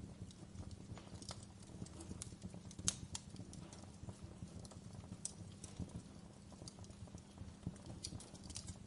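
Wood fire crackling in a fireplace: irregular pops and snaps over a low steady background, with one sharper pop about three seconds in.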